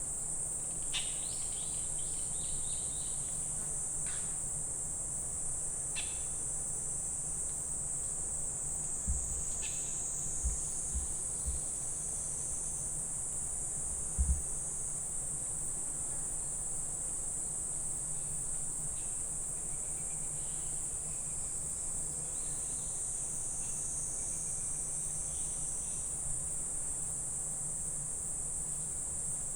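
Steady, high-pitched chorus of summer insects that never lets up, with a few short high chirps in the first ten seconds and several dull low thumps around the middle.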